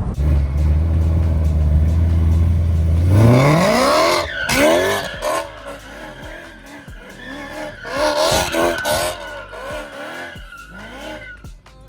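Straight-piped BMW E92 M3's S65 V8 exhaust, a steady low drone that climbs sharply in pitch about three seconds in as the car accelerates hard. The revs then rise and fall several times, with another loud climb a little past halfway, before easing off.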